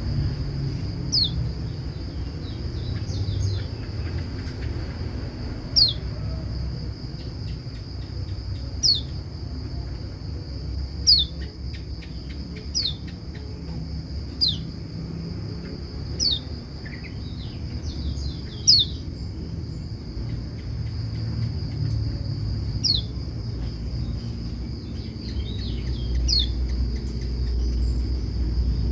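White-eye giving short, sharp calls that drop in pitch, repeated about every one to three seconds. Behind them runs a steady high insect-like drone and a low rumble.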